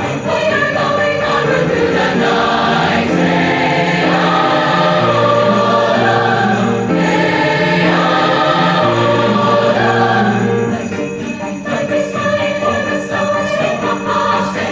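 Combined high school choirs singing a winter song in several parts, with sleigh bells shaking along. About eleven seconds in the voices drop back and the rhythmic jingling of the bells stands out more.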